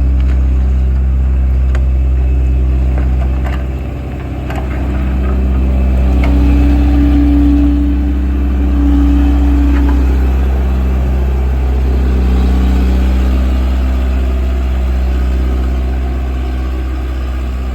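Diesel engine of a Volvo vibratory road roller running steadily with a deep low rumble, dipping briefly about four seconds in, with a higher hum joining midway for a few seconds.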